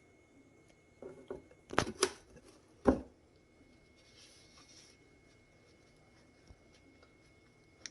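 A cat biting and tearing at a cardboard box: a short crackle about a second in, then three sharp crunching rips within the next two seconds.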